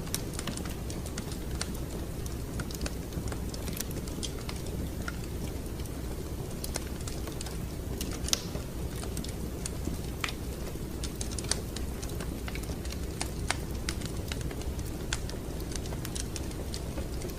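Wood fire crackling in a fireplace: irregular sharp crackles and small pops over a steady low rumble, with one louder pop about eight seconds in.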